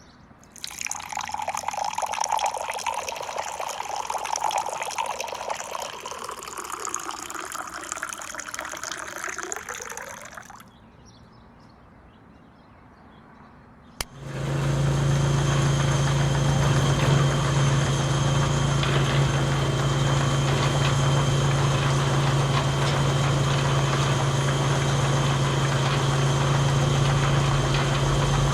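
Liquid pouring or splashing for about ten seconds, with a pitch that sweeps down and back up near the end, then a short lull. About fourteen seconds in, a steady motor hum starts and runs on evenly.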